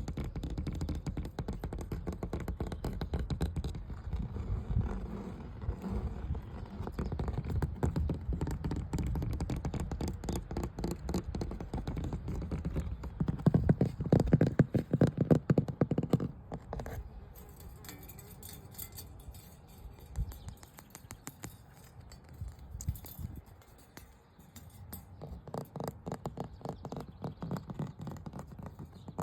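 Rapid tapping and scratching on hard surfaces, ASMR-style. It gets loudest about halfway through, turns lighter for several seconds, and picks up again near the end.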